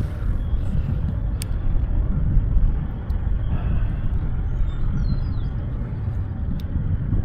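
Strong, gusty wind buffeting the microphone: a continuous low rumble that swells and eases irregularly.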